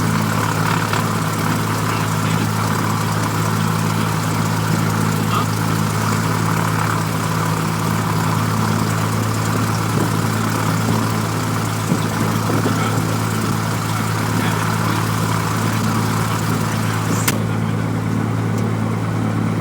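Cessna 172F's six-cylinder Continental O-300 engine idling steadily just after start, heard inside the cabin. A click comes near the end.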